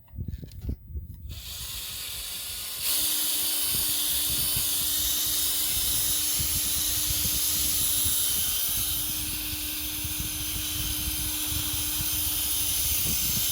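Drill spinning a small buffing pad with compound against fiberglass gelcoat: a steady hiss with a motor hum that starts about a second in, gets louder about three seconds in, and then runs steadily over uneven low bumps from the pad being worked against the hull.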